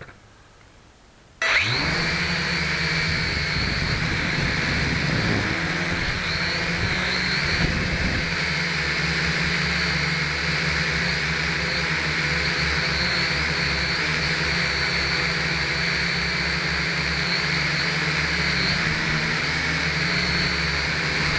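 Small quadcopter's electric motors and propellers starting suddenly about a second and a half in, then running steadily with a high, slightly wavering whine over a rushing rumble.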